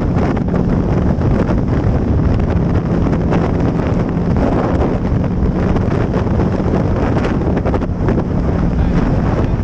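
Wind buffeting a motorcycle rider's camera microphone at speed, over the steady hum of the motorcycle engine holding an even pitch.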